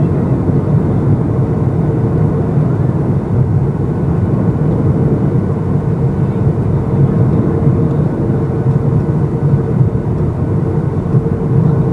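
Steady cabin noise inside a Boeing 737-800 in descent: a loud, even rumble of airflow and its CFM56-7B turbofan engines, with a faint steady hum above it.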